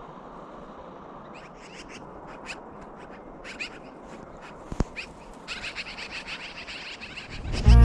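Small birds chirping in short, repeated high calls, growing busier in the last couple of seconds, over a steady outdoor hiss, with one sharp click about five seconds in. Music starts loudly at the very end.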